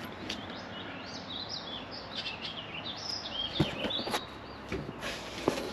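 Songbirds chirping, many quick rising and falling calls, with a few short knocks over a steady background hiss.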